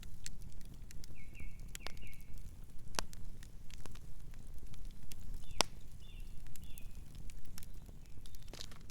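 Campfire crackling, irregular sharp pops and snaps over a steady low rumble of burning. A nocturnal bird chirps softly in two short runs, about a second in and again past the middle.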